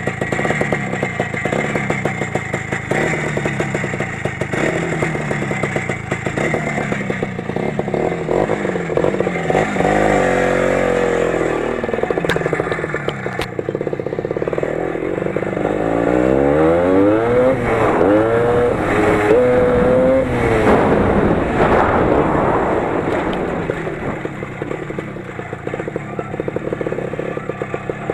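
The 20 hp engine of a Lider 3.221 running under load off-road, its revs rising and falling repeatedly, with the clearest revving about a third of the way in and again past the middle. Rapid knocking and rattling come through in the first third, as the suspension jolts over rough ground.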